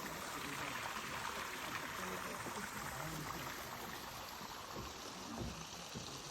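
Mountain stream water rushing steadily, an even hiss of flowing water.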